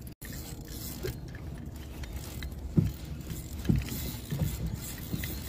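Water and handling noise on a kayak: a steady low rumble, with two dull knocks on the hull about three and four seconds in.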